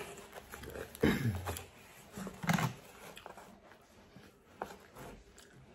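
A man chewing pizza topped with fries, with close mouth and chewing noises. Two short low hums come about one second and two and a half seconds in.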